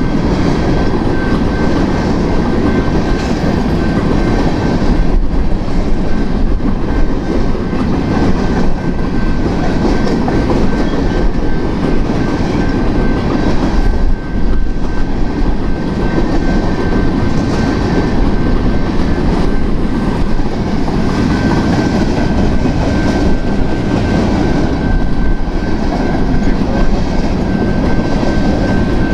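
BNSF grain train's covered hopper cars rolling past at speed, wheels clacking and rumbling steadily over the rails, with a thin steady high-pitched ring above the rumble.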